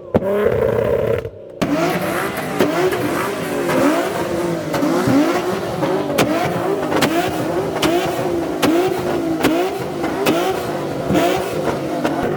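A car engine revving hard over and over, its pitch swinging up and down about once a second, with scattered sharp cracks.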